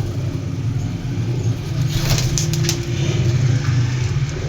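A steady low engine hum, with a few brief clicks about two seconds in.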